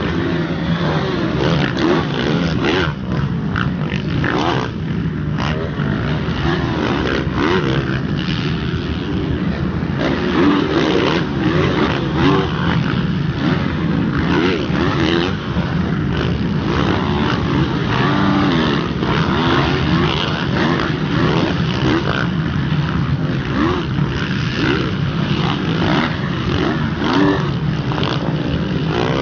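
Several motocross dirt bike engines revving at once, their pitch rising and falling over and over as they throttle on and off.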